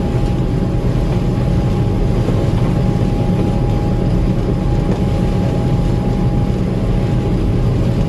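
Gleaner M2 combine running steadily while harvesting corn: a constant low machine drone with a thin, steady whine over it.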